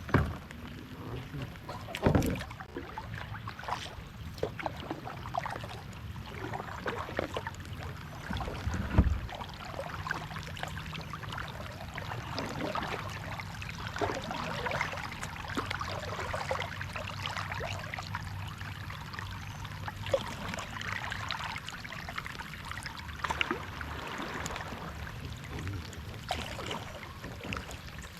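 Kayak paddling: the paddle splashing and water dripping and trickling in a steady patter, with two sharp thumps, about two seconds and nine seconds in.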